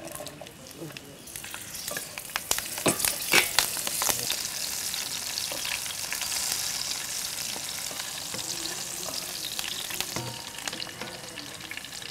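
Green chillies being sautéed in hot oil: a sizzle that builds about a second and a half in, with a burst of sharp crackles and pops over the next couple of seconds, then settling into a steady sizzle.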